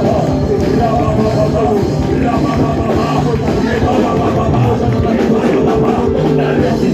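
Loud, steady band music, the kind played during worship in a church service.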